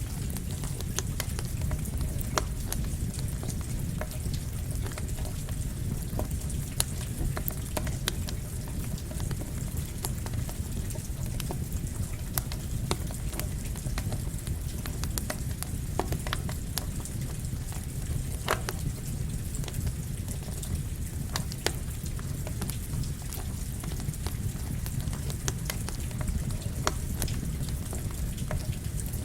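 A campfire crackling under steady rain: a constant low rush and hiss, with frequent sharp pops and snaps from the fire.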